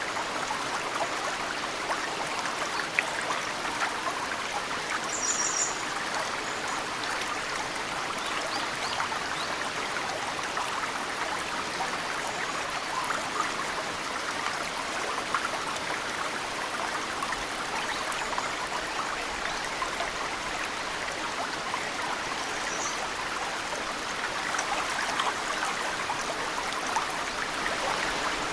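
Mountain stream running steadily, with melting snow trickling and dripping into the water in many small splashes. A bird gives a short high chirp about five seconds in, and a fainter one past twenty seconds in.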